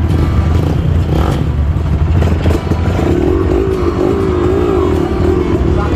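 Trail motorcycle engine running at idle with a steady low rumble, one engine's pitch wavering up and down for a couple of seconds in the middle.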